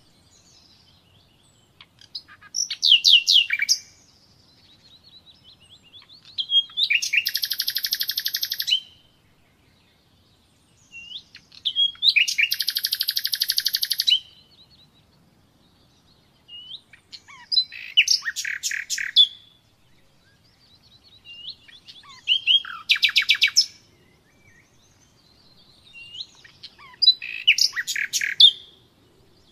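Nightingale singing: six separate song phrases a few seconds apart, each a burst of rapid, high-pitched repeated notes and trills, with short quiet pauses between.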